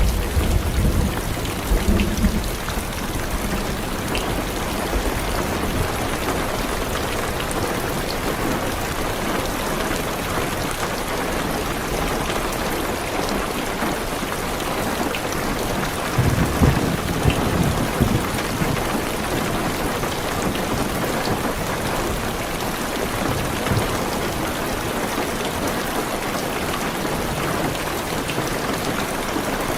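Heavy rain drumming steadily on a car's roof and windows, heard from inside the car. Thunder rumbles low twice, once at the start and again about sixteen seconds in.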